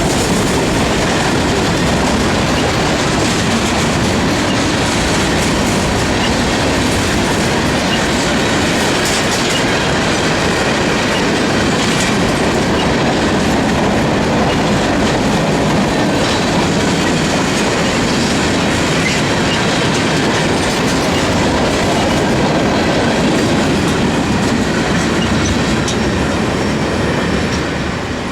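Freight cars of a CSX train rolling past, wheels clattering over the rail joints with faint high wheel squeal. The sound eases off near the end.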